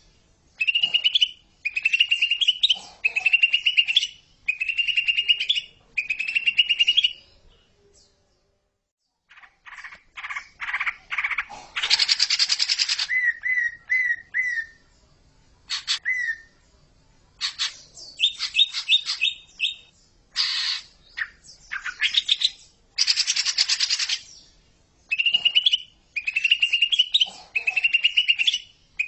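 Cucak ijo (green leafbird) calling: a series of short trilled phrases that rise in pitch, about one every second and a half, then after a brief break a varied run of harsh chatters, buzzy notes and short whistled notes, with the rising trilled phrases returning near the end.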